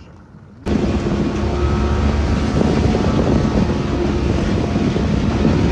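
Motorboat engine running under way, with heavy wind buffeting the microphone; it cuts in abruptly about a second in.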